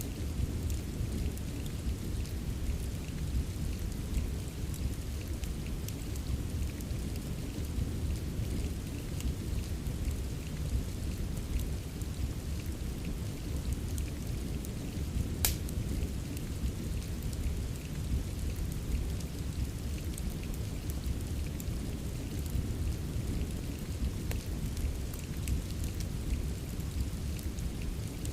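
Steady rain with a deep low rumble, mixed with a crackling wood fire: faint ticks throughout and one sharp pop about halfway through.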